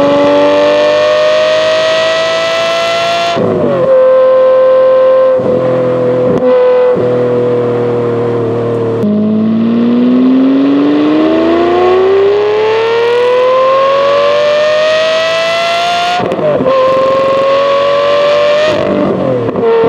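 Lamborghini Murcielago V12 running through an X-pipe exhaust while accelerating through the gears. The engine note climbs in pitch, then drops sharply at each upshift, about four times, with the longest rising pull in the middle.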